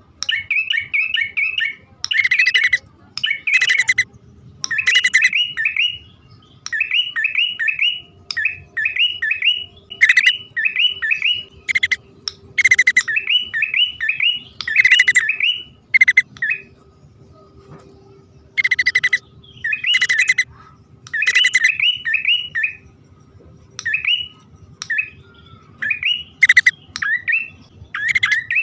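Prinias (prenjak), male and female, calling: quick runs of three to five chirping notes, repeated again and again with short pauses, mixed with sharp, harsher notes. A bird-lure call recording.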